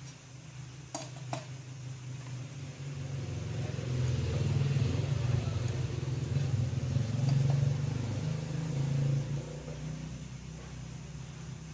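A motor vehicle's engine hum that builds, holds loudest through the middle and fades again, like a vehicle going past. Two sharp clicks sound about a second in.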